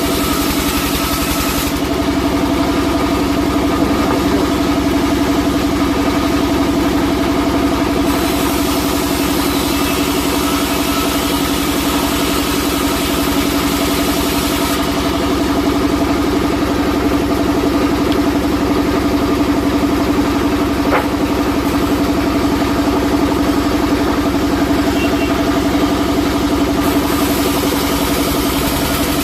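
Sawmill log-cutting machine running steadily with a constant mechanical hum. A higher hiss over it drops away and returns a couple of times.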